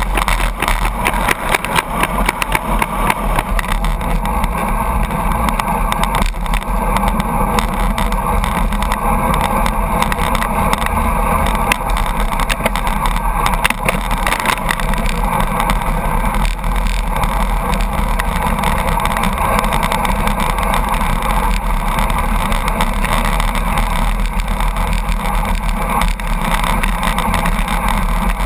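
Steady, loud rush of wind and road noise, with the rumble of a truck close ahead, heard from a road bicycle drafting in the truck's slipstream at high speed.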